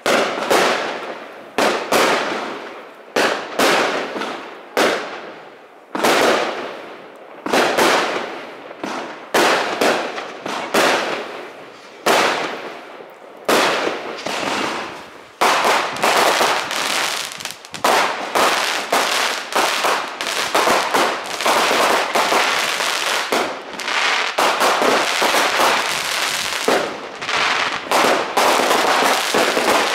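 Aerial fireworks going off: a string of sharp bangs about a second apart, each fading away, that thickens about halfway through into a dense, almost continuous barrage.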